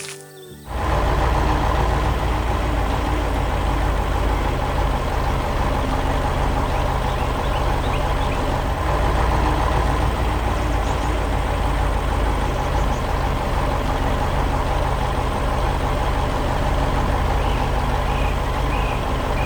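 Heavy vehicle engine running steadily at a constant speed, cutting in abruptly just under a second in.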